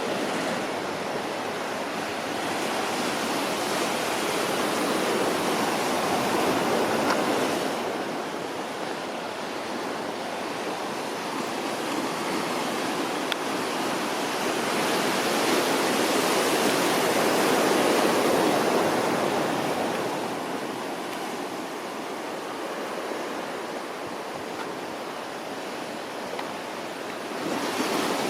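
Ocean surf washing on the shore, a steady rush that swells and eases in long, slow surges.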